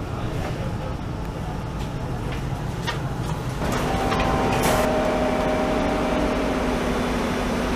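Steady rumble inside a passenger train rolling slowly into a station, with a few light clicks from the wheels. About halfway through it gives way to a steady hum with several held tones from a diesel train standing at the platform, and a single sharp click soon after.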